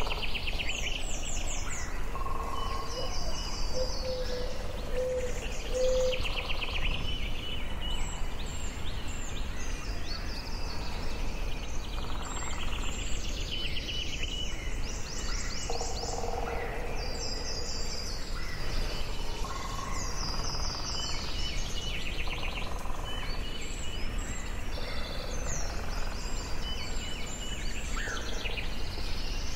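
Forest ambience: several songbirds singing, with repeated rapid chirping trills and short whistled phrases one after another, over a steady low background rush.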